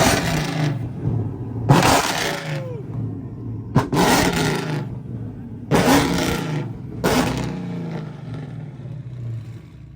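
A loud car engine revved five times in a row, each rev starting sharply and falling away over a second or two, the last one dying down near the end.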